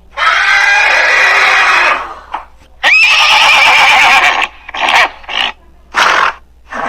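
Horse whinnying: two long calls, the second starting with a sharp rise in pitch, then a few short sounds near the end.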